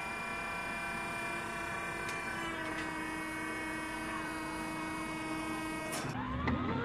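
Sci-fi craft engine sound effect: a steady, many-toned electronic whine. Near the end the sound cuts over abruptly to rising and falling gliding tones.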